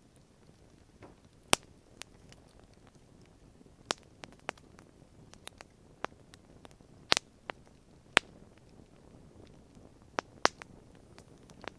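Wood campfire crackling: irregular sharp pops and snaps, a few louder ones among many small ones, over a faint low hiss.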